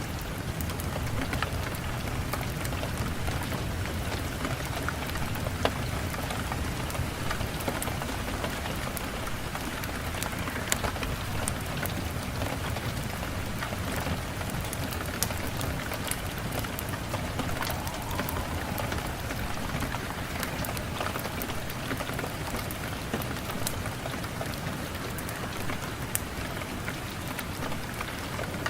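Steady, even rain with a low rumble underneath, and scattered sharp crackles and drips throughout.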